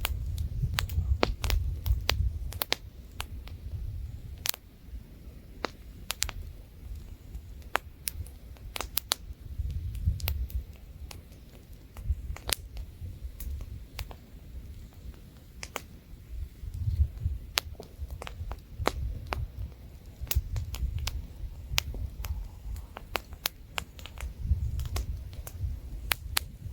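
Wood campfire crackling, with frequent sharp pops, over a low rumble of light wind that swells and fades every few seconds.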